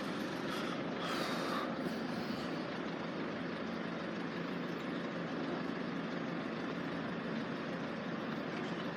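Steady outdoor rumble of road traffic, with no alarm tone and no train yet, and a little more vehicle noise in the first couple of seconds.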